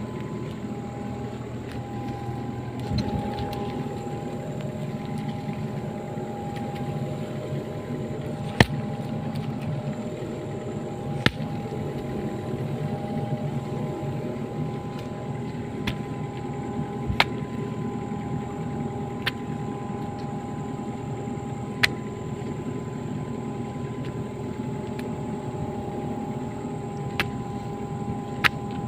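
Excavator's engine running steadily with a constant hum and whine, broken by several sharp clicks or knocks at irregular intervals.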